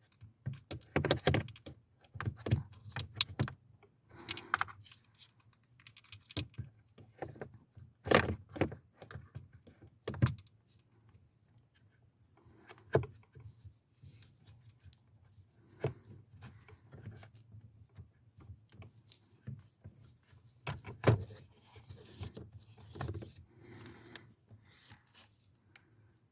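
Hands working plastic dashboard parts into place: irregular plastic clicks, knocks and light rattles, several sharper knocks spread through the stretch.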